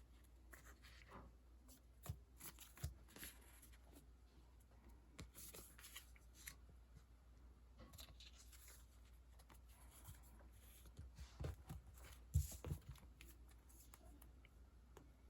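Faint rustling of paper and plastic sticker sheets being handled, with a few soft taps; the loudest handling comes about three-quarters of the way in.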